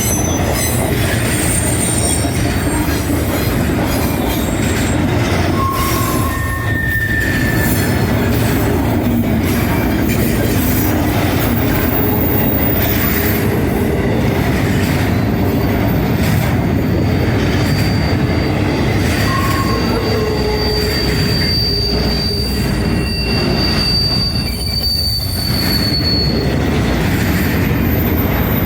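Train rolling past close by: a steady, loud rumble of wheels on rail, with thin wheel squeals coming and going and one high squeal held for about nine seconds in the second half.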